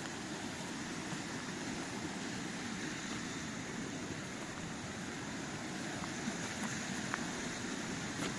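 Steady rushing noise with a few faint light clicks in the last few seconds.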